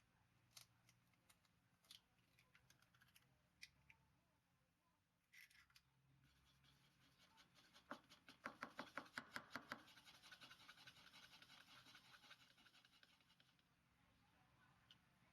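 Eggs being beaten in a bowl: a fast run of clicks of the utensil against the bowl about eight seconds in, then a softer swishing that fades out. Scattered small clicks before it.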